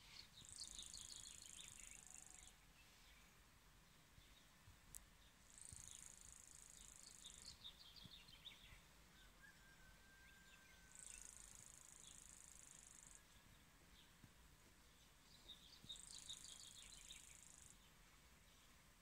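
Songbird repeating a short, high, buzzy song with a quick falling trill, four times about five seconds apart, faint over quiet outdoor background.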